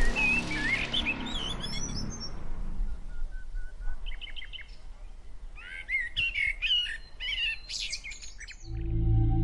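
Small birds chirping and singing in short phrases of quickly rising and falling notes. Near the end, low, steady ambient music tones come in.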